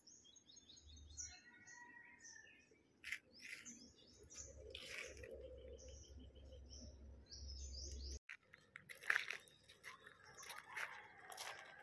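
Small birds chirping and twittering, many short high calls, faint, over a low hum. About eight seconds in the sound cuts out for a moment, then the birds go on with louder rustling and knocks.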